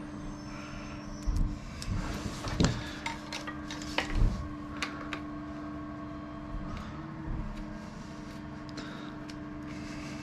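Small metal motorcycle parts and tools clinking and knocking as they are handled and set down, with several sharp clinks in the first half and fewer later, over a steady low hum.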